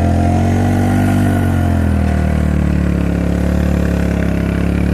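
Suzuki King Quad ATV engine running. The revs rise slightly, then drop about two seconds in and settle to a steady lower note.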